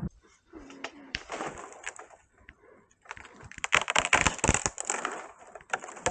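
Crinkly rustling and clattering of camping gear being handled, loudest and busiest about four to five seconds in.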